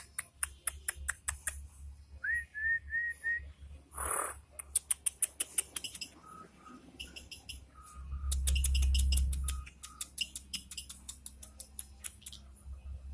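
A jalak (starling) singing: fast runs of sharp clicking chatter mixed with short whistled notes, including four quick repeated whistles about two seconds in. A loud low rumble about eight seconds in lasts a second and a half.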